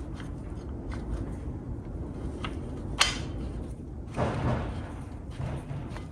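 Handling noises of a brake caliper mounting bolt being fitted on a motorcycle fork: a sharp click about three seconds in and a short scraping rustle a second later, over a steady low rumble.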